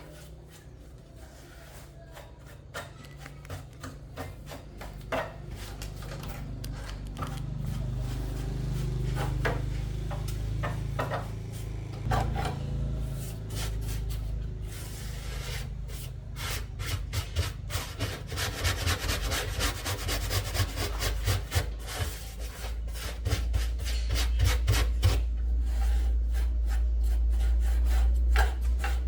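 Rapid, repeated hand scraping and rubbing strokes, as in filing or scraping a part, densest in the middle, over a steady low hum that grows louder near the end.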